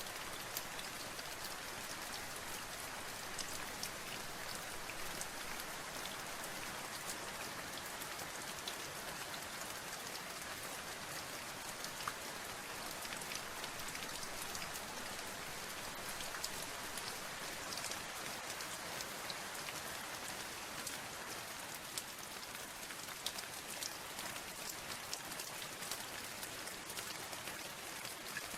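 Steady rain with many individual drops ticking on a surface.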